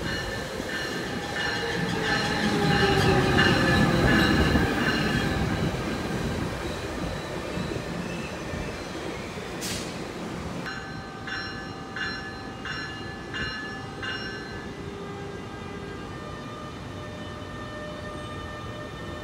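A train moving through the station. Its rumble swells to its loudest a few seconds in, with a falling tone and steady high wheel-squeal tones over it. Later come a handful of evenly spaced knocks, then the squealing tones carry on more quietly.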